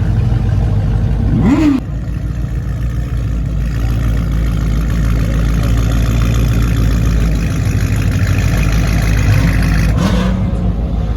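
Car engines running at idle with some revving, a steady low hum; the sound changes abruptly twice, about two seconds in and near the end.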